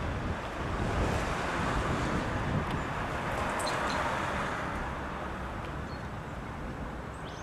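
Road traffic: car noise that swells over the first few seconds and then slowly fades, as of vehicles passing.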